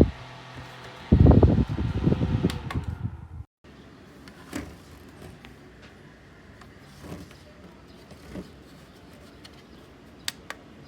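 Small desk fan running, its airflow buffeting the microphone in loud rumbling gusts with a steady motor hum underneath. About three and a half seconds in the sound cuts off abruptly, leaving a faint steady hiss with a few light clicks.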